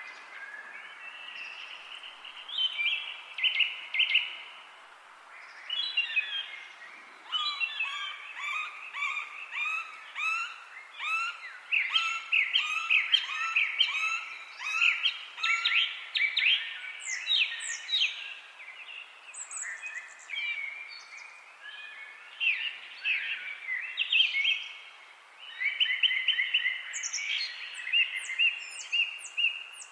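Several songbirds singing and calling at once, a dense, overlapping chorus of chirps, trills and whistled phrases over a faint steady hiss. The chorus is busiest from about a quarter of the way in to past the middle, with a rapid run of very high, evenly repeated notes.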